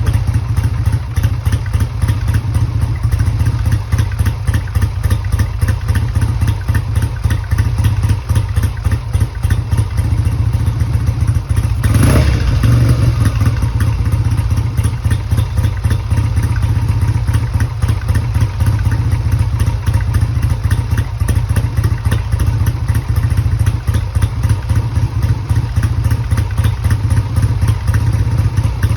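1969 Triumph Bonneville's 650 cc parallel-twin engine idling steadily as it warms up after a cold start, with one brief louder surge about twelve seconds in.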